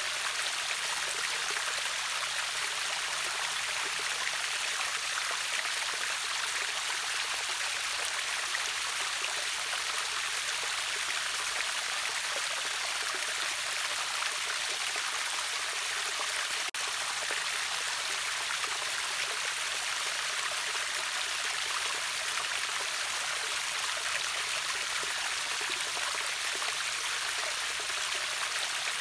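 Water of a river waterfall rushing steadily, an even hiss with little low rumble. It cuts out for an instant about two-thirds of the way through.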